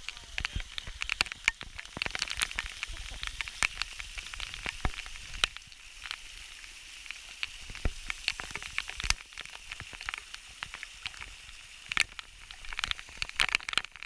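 River water splashing and spattering around a raft, full of sharp crackles and ticks over a steady hiss, with a low rumble underneath.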